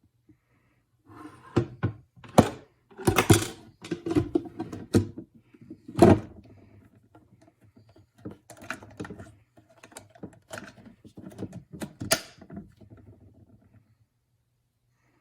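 A run of irregular knocks, clicks and thunks of hard objects being handled, several loud ones in the first half, stopping about a second before the end.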